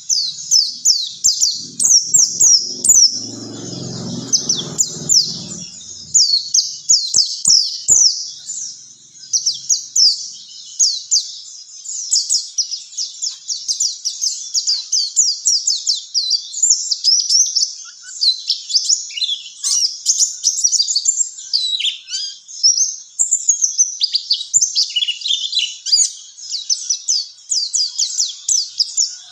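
White-eye (pleci) song: a fast, unbroken stream of high, sharp chirping notes, many of them quick downward sweeps, played as a lure recording for training cage birds. A brief low rumble sounds underneath a couple of seconds in, with a few faint clicks just after.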